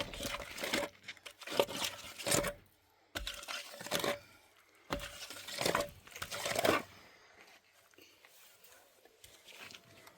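Crunching and rustling in about four loud bursts over the first seven seconds, then quieter.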